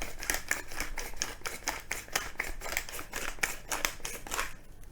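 Black pepper being ground from a pepper mill: a quick run of crunching clicks, about five or six a second, that stops near the end.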